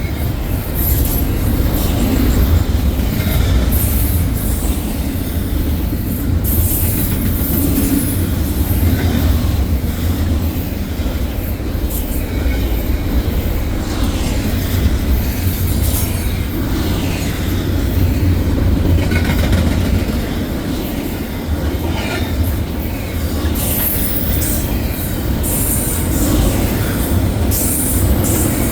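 Freight train's intermodal cars rolling past steadily with a continuous low rumble. Short high-pitched wheel squeals and clicks come through again and again.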